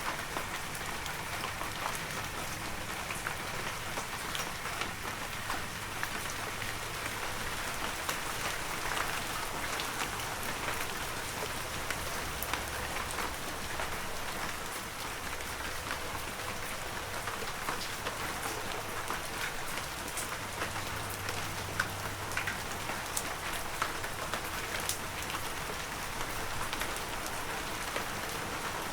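Heavy rain falling steadily, a dense hiss with countless individual drops pattering on surfaces.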